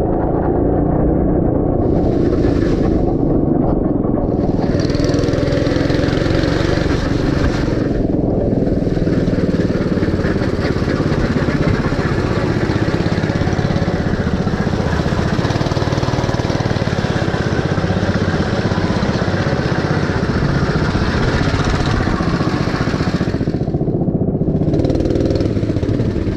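Small single-cylinder go-kart engine running continuously, heard onboard from a helmet camera. A rushing hiss lies over the engine and drops out briefly a few times.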